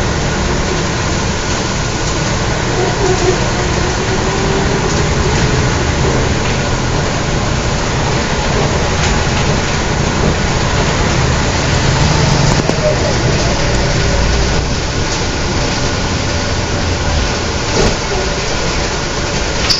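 Scania L113CRL bus's rear-mounted diesel engine running steadily under way, with faint voices underneath.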